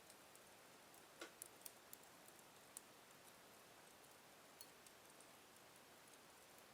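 Wood fire burning in a fireplace, crackling faintly: a soft hiss with scattered sharp pops, including a quick run of them about a second in.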